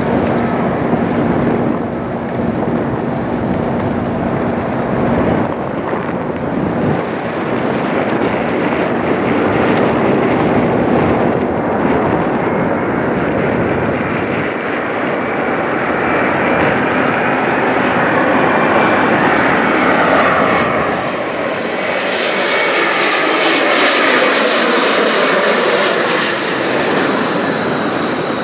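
Embraer E175 regional jet flying over, its twin turbofan engines making a steady loud jet rush. Near the end a high fan whine comes in and falls in pitch as the jet passes.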